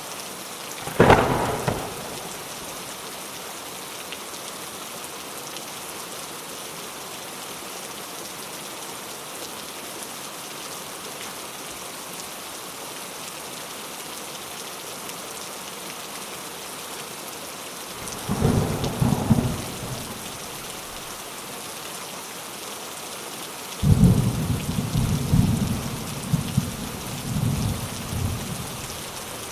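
Steady rain with thunder. There is a sharp thunderclap about a second in, a rumble at about eighteen seconds, and a longer rolling rumble from about twenty-four seconds.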